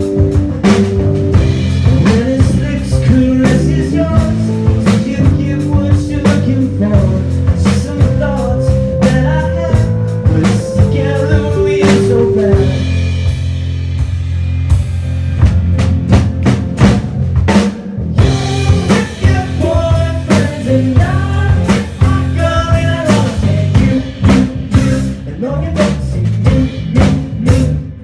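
Live rock band playing an instrumental passage: a drum kit keeps a steady beat under bass and guitar, with held lead notes partway through.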